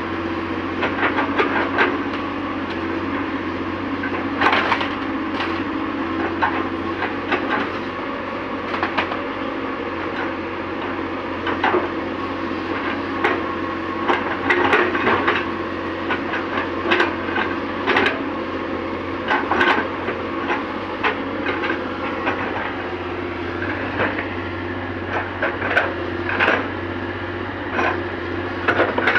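Excavator engine running steadily under many irregular sharp knocks and cracks from the machine's work.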